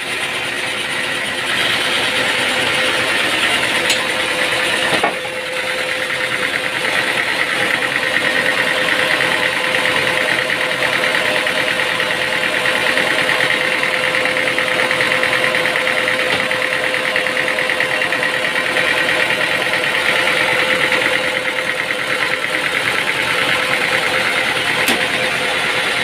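Machinery running steadily with a constant hum, with a brief knock and dip in level about five seconds in.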